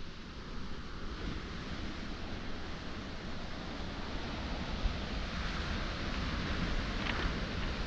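Surf washing on a pebble shore, a steady rush that swells slightly in the second half, with wind rumbling on the microphone. A few faint clicks near the end.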